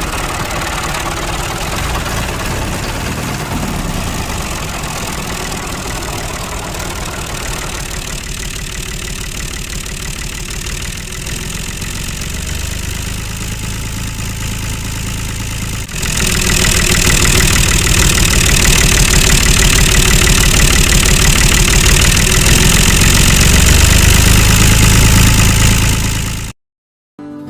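An engine running steadily. About two-thirds of the way in it abruptly becomes much louder and fuller, and it cuts off suddenly just before the end.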